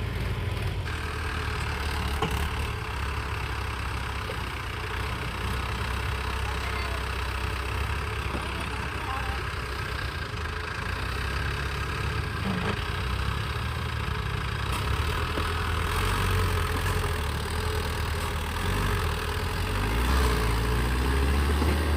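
Tractor diesel engine running steadily with a deep drone, growing louder in the last few seconds.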